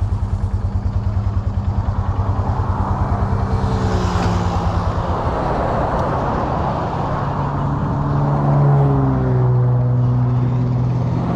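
ATV engine running with a fast pulsing beat, its pitch climbing about four seconds in and again around eight seconds as it gets under way.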